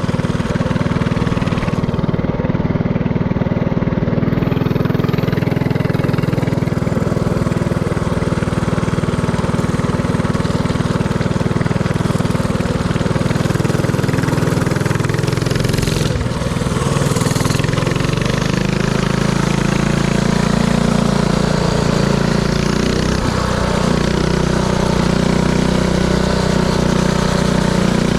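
Predator 224cc single-cylinder four-stroke mini-bike engine running steadily under way, its engine speed shifting a little past halfway through.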